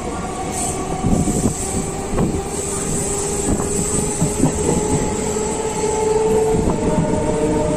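Electric local train running, heard on board: wheels knocking over rail joints with a steady whining hum whose pitch shifts near the end.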